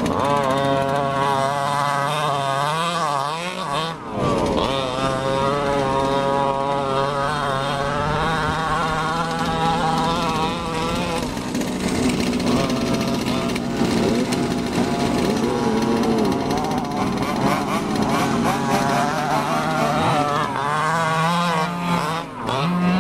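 Small two-stroke engines of large-scale RC cars running, several at once, their pitch repeatedly rising and falling as the throttle is opened and closed; a brief drop about four seconds in.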